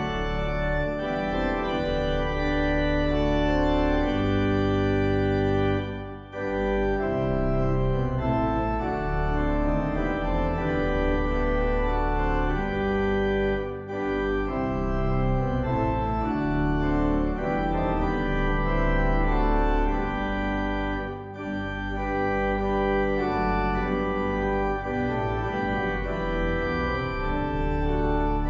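Church organ playing the service prelude in held, sustained chords, with brief breaks between phrases about six, fourteen and twenty-one seconds in.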